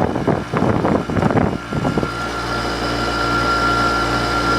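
2004 Hampton Bay (LG) 8,000 BTU window air conditioner running on low fan with its compressor on. A rough, uneven whirring settles about two seconds in into a steady hum with a high whine. The owner takes the sound as a sign the compressor is starting to go, with the fan motor bearings already worn.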